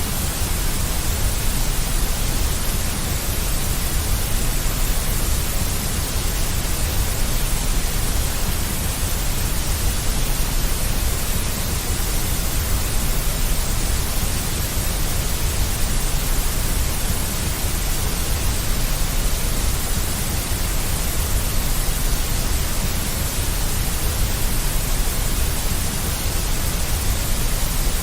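Steady, unchanging deep white noise, a constant hiss with a heavy low rumble beneath it.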